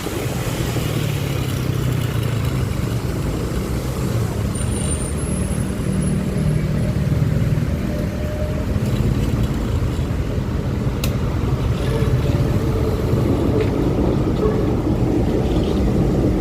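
Honda Click 125i scooter's single-cylinder engine running while riding, its low engine note wavering over steady road noise and building a little in the first few seconds.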